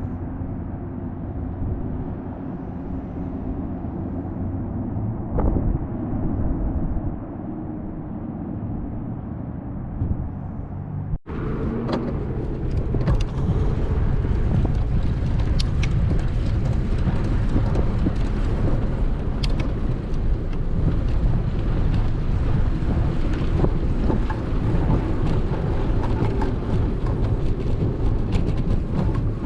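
Steady outdoor rumble with wind on the microphone and no voices. About eleven seconds in it cuts out for an instant and comes back louder and brighter, with scattered clicks.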